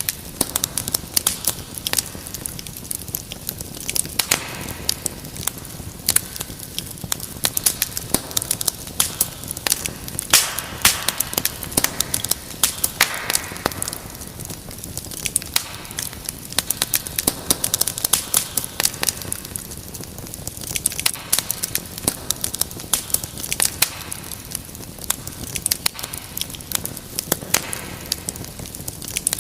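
Wood fire crackling and popping steadily in a fireplace, with dense irregular snaps and now and then a louder pop.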